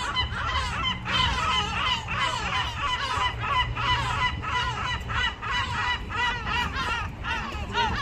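A flock of birds calling, many harsh overlapping calls several times a second without a break.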